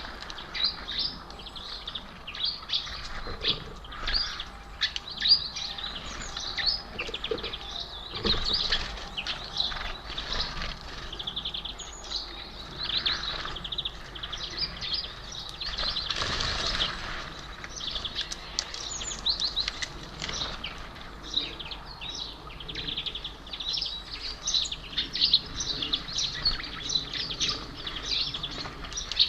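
Small birds chirping continually at a bird feeder, with the flutter of wings as birds come and go.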